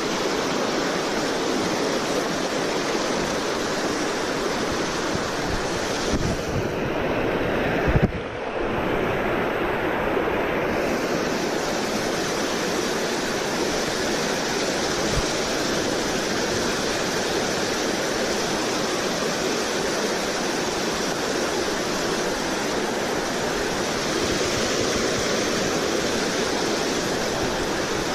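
Steady rush of river water, with a knock about eight seconds in and a few seconds where the sound turns muffled.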